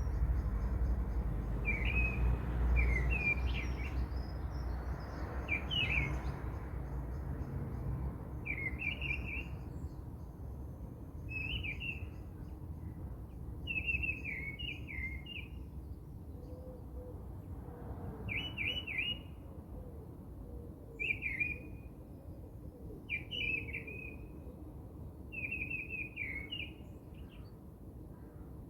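A songbird singing the same short, quick phrase again and again, one every two to three seconds, over a low steady rumble.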